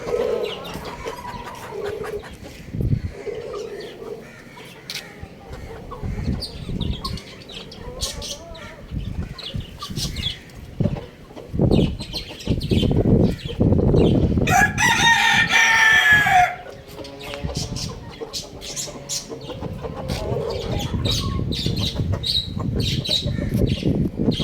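A young rooster crows once, a call of about two seconds a little past the middle. Low clucks and scattered sharp knocks come before and after it.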